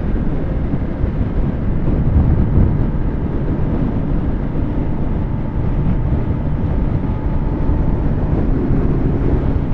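Kawasaki ZX10R inline-four superbike engine running at a steady cruise, with no revving, under a heavy steady wind rush on the rider's microphone.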